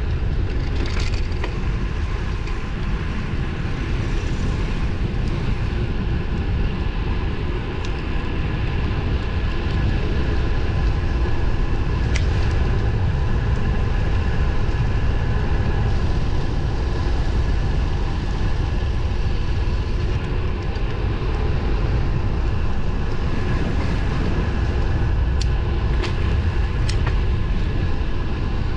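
Steady wind rumble and tyre noise of a road bike being ridden on pavement, with a faint steady whine and a few sharp ticks, one in the middle and two near the end.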